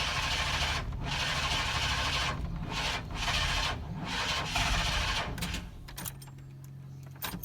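A 1997 GMC K2500's 5.7 L Vortec V8 being cranked by its starter without firing. It turns over slowly and unevenly in rasping pulses about once a second, hitting hard spots. The cranking dies away about six seconds in. This is the hard-start symptom that the owner traces to the ignition.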